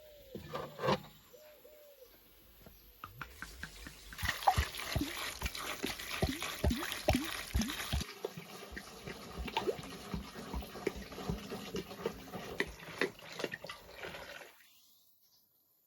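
Water splashing and sloshing in a container, with many quick plops and gurgles. It starts a few seconds in and cuts off shortly before the end.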